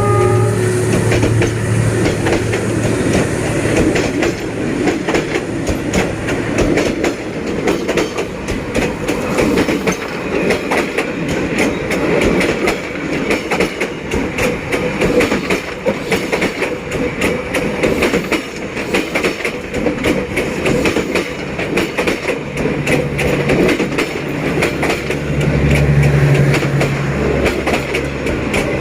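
Passenger train hauled by a D19E diesel-electric locomotive running along the track, with steady wheel-on-rail clatter throughout. A low engine drone is heard at the start and again near the end.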